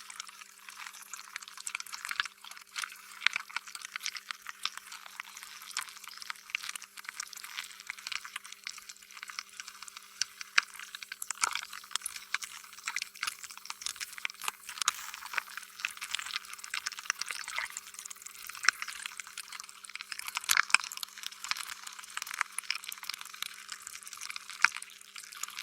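Slime being squished and stretched: a continuous run of wet, sticky clicks and pops, with a faint steady hum underneath.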